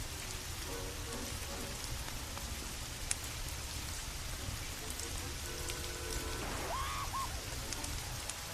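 Steady rain falling, with a single sharp click about three seconds in and faint, brief tones in the background about a second in and again past the middle.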